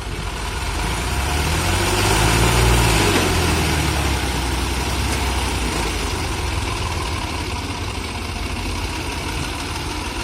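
Heavy diesel engine idling, revving up briefly about two seconds in and settling back to idle.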